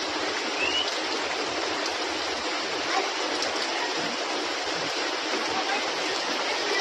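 Heavy rain pouring steadily, with one short rising bird whistle about a second in.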